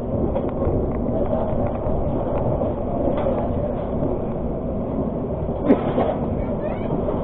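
Argo Parahyangan passenger train running, a steady rumble heard from inside the carriage, with a single sharp knock a little over five seconds in.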